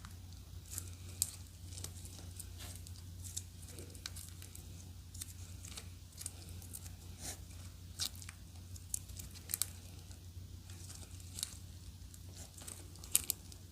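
Clear slime being squished and stretched by hand, giving scattered sharp little pops and crackles, a few of them louder, over a steady low hum.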